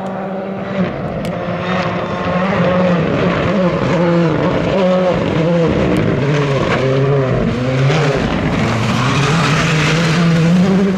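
Rally car engine revving hard, its pitch rising and dropping again and again with quick gear changes, and growing louder toward the end as the car comes closer.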